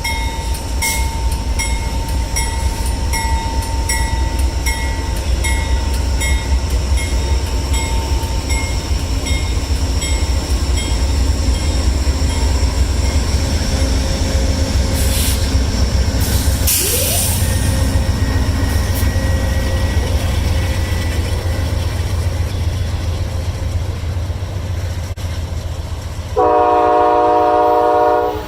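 A train running past with a steady low rumble, while a bell rings about twice a second and fades out by about halfway. Near the end a locomotive horn sounds one loud chord for about two seconds.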